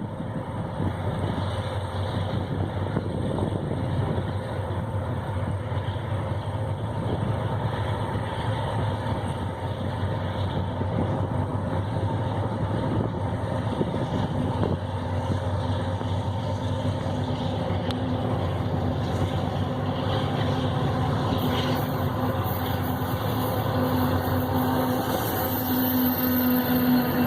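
Freight train on the track: a steady rumble of a diesel locomotive and rolling wheels that grows louder toward the end, with a steady engine hum coming in during the last few seconds.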